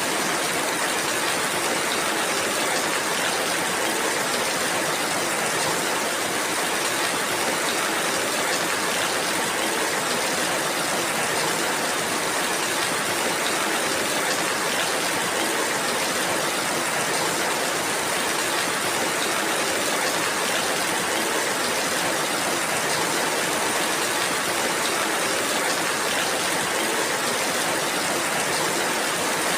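Steady rainfall, an even hiss of many drops with faint fine patter, unchanging in level.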